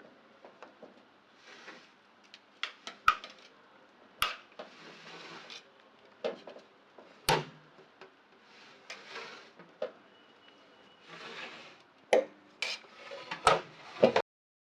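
A metal utensil clinking and knocking against a cooking pot, with short scraping strokes between the knocks and a clink every second or so.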